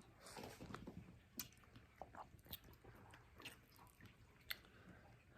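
Near silence with faint scattered clicks and chewing sounds.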